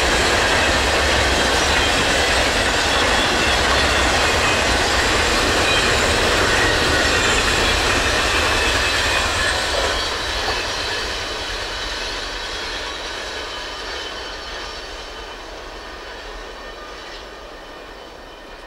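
Norfolk Southern intermodal freight train's cars rolling past on the rails, a steady rumble of wheels on track. About halfway through it starts fading steadily as the end of the train passes and draws away.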